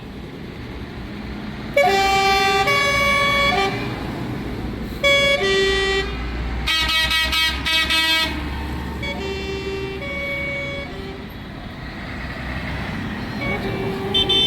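Vehicle horns sounding in a string of loud, pitched blasts that step between several notes, over the low rumble of passing tractor engines. Rapid high beeps start near the end.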